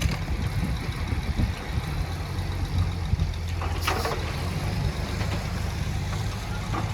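Heavy diesel engine of earthmoving machinery running steadily, with a low drone, and a short burst of noise a little before four seconds in.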